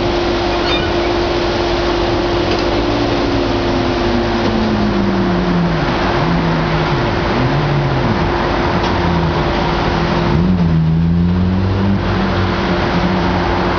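Large tracked excavator's diesel engine and hydraulics working under load on demolition, the engine note dipping and rising several times over a steady hum and a constant noisy clatter.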